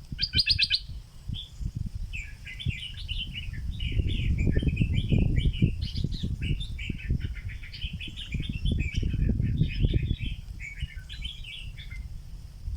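Caged stripe-throated bulbul used as a decoy singing a long run of quick chattering phrases, after a short harsh call about half a second in. Low rustling noise runs underneath.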